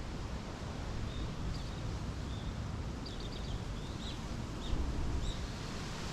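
Small birds chirping, short high notes scattered every second or so, over a steady low rumble of wind on the microphone.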